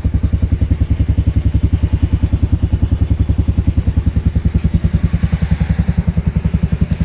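Yamaha Majesty 250 scooter's single-cylinder four-stroke engine idling steadily, an even putter of about ten firing pulses a second.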